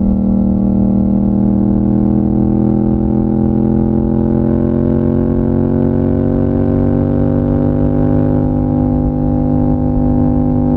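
Yamaha MT-07's parallel-twin engine running under way, its exhaust note climbing slowly and steadily in pitch as the revs rise over several seconds.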